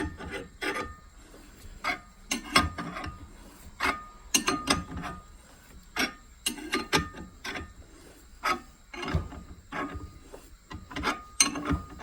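Hand wrench turning the forcing screw of a ball joint press as it pushes a new ball joint into a steering knuckle, in repeated strokes about every two seconds, each a cluster of sharp metal clicks with scraping and rubbing. The freshly oiled screw is turning easily.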